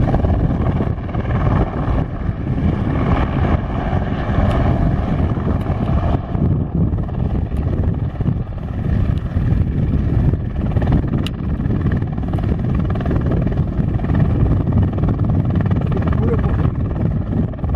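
Eurocopter AS350 Esquilo single-turbine helicopter in flight: a steady, fluctuating rotor rumble with a constant whine of turbine tones above it.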